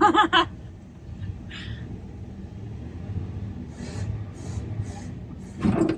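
Low rumble of a 1989 Dodge D100 pickup rolling down the road with its engine stalled, coasting. A short voice-like exclamation comes at the very start and again near the end.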